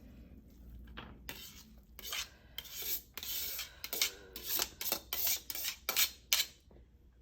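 A utensil scraping against a pot while drained, parboiled rice is scooped into the biryani pot: a quick series of about a dozen short scrapes, starting about a second in.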